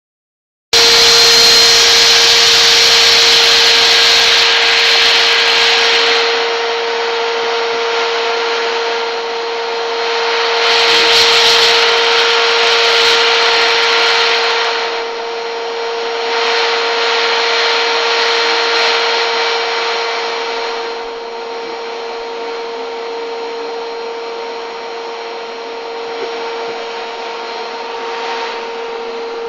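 Electric vacuum cleaner switching on under a second in and running with a steady whine over a rushing hiss of air. The hiss swells and fades, loudest at first and again about ten to fifteen seconds in.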